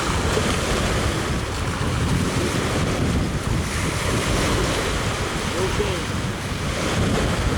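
Ocean surf washing steadily, with wind buffeting the microphone as a low rumble. A faint distant voice is heard briefly about six seconds in.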